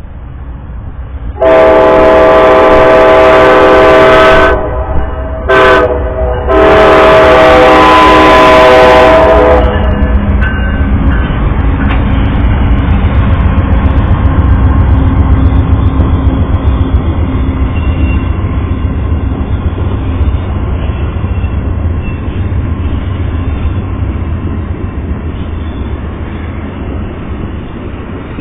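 Amtrak GE Genesis P42DC locomotive's multi-note horn at a grade crossing: a long blast, a short one, then another long one. After it comes the steady rumble and wheel noise of the passenger train passing, easing off slowly near the end.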